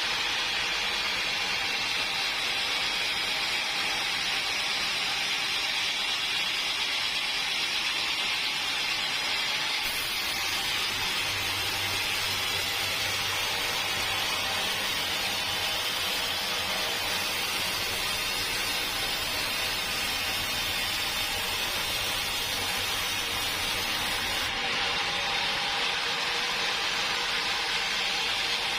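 Sawmill machinery running with a steady, even hiss. From about ten seconds in until near the end it grows fuller, with a low hum added, and then drops back.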